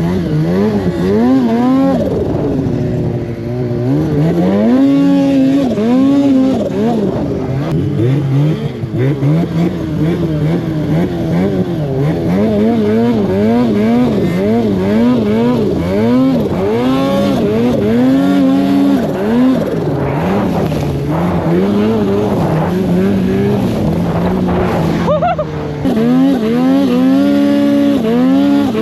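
Two-stroke mountain snowmobile engine being ridden hard, its pitch rising and falling repeatedly with the throttle, with a brief drop about 25 seconds in before it picks up again.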